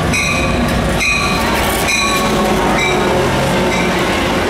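Amtrak San Joaquins passenger train arriving at the station: a steady low rumble of the diesel locomotive and rolling cars, with a bell ringing about once a second that grows fainter near the end.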